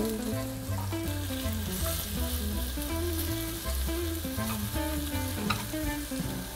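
Bacon and chopped vegetables sizzling steadily as they are stir-fried in a frying pan and pushed around with chopsticks.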